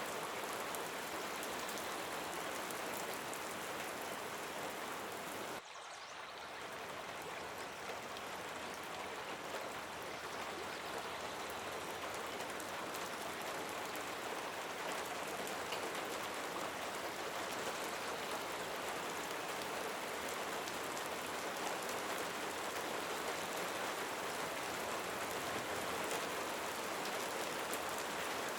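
Steady rain falling. About six seconds in, the sound drops suddenly, then swells back to its full level over a few seconds.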